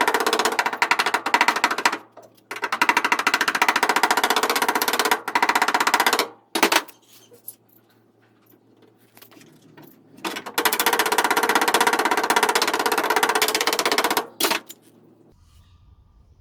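Pneumatic air hammer rattling rapidly against the steel rear quarter panel of a Ford Escort Mk2, working out a dent. It runs in bursts of about two to four seconds with short pauses, the longest pause in the middle, and stops for good near the end.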